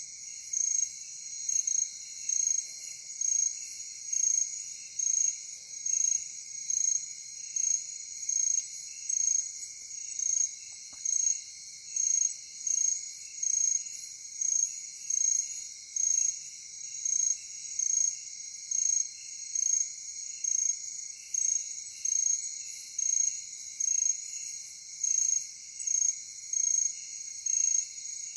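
Night chorus of crickets and other insects: a steady high trill, with one louder chirp repeating evenly a little less than once a second.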